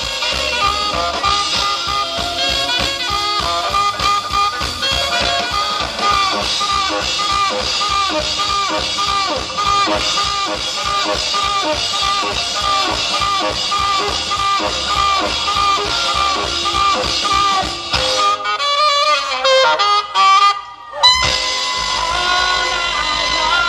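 Live rock and roll band playing an instrumental passage with a saxophone lead over a steady beat. Near the end the bass and drums drop out for a few seconds, then the full band comes back in with a loud hit.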